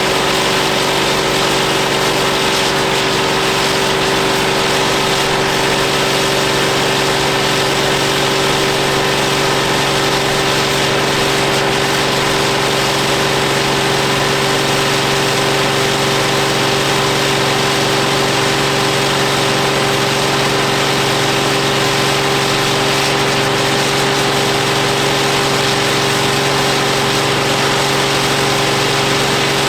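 Ford 7810 tractor's diesel engine running at a constant speed on a PTO dynamometer. The tone holds steady throughout, with no revving up or down.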